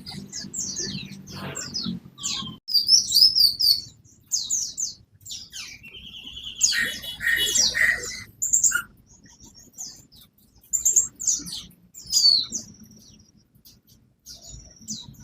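Cucak cungko songbird singing vigorously: a fast, varied run of high chirps, trills and gliding whistles with short pauses, loudest in a burst a little past the middle.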